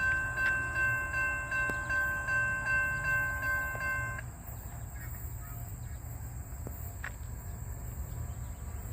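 A railroad bell ringing steadily about twice a second, with a metallic tone of several pitches, that cuts off abruptly about four seconds in; a steady low rumble continues beneath.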